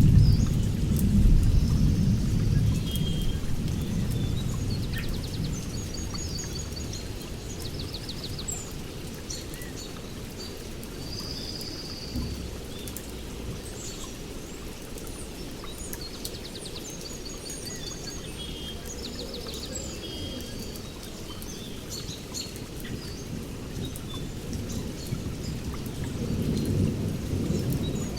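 Several songbirds chirping and trilling in short, high phrases over a low rumble that is loudest at the start, dies down over a few seconds and swells again near the end.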